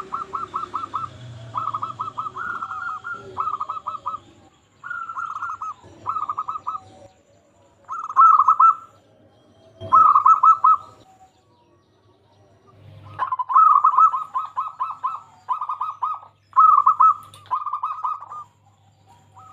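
Zebra doves (perkutut) singing: repeated phrases of rapid, staccato cooing notes, with a pause of about two seconds past the middle before the phrases resume.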